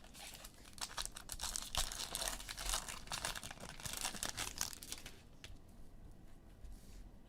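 Plastic wrapper of a trading card pack crinkling and tearing as it is opened. The crackling is dense for about the first five seconds, then thins out and grows quieter.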